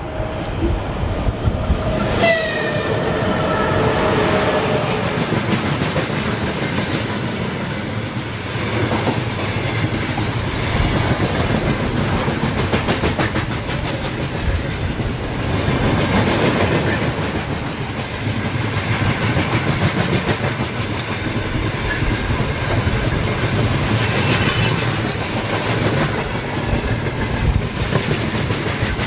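A train passing close by, with a steady rolling roar and wheels clacking over the rail joints. A horn sounds in the first few seconds.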